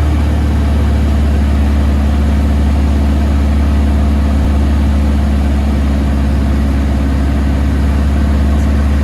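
Van's RV-9 light aircraft's piston engine and propeller giving a steady, even drone as heard inside the cockpit.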